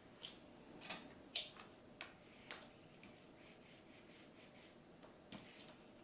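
Paint being applied to a wall: several short, faint rubbing strokes spread across a few seconds.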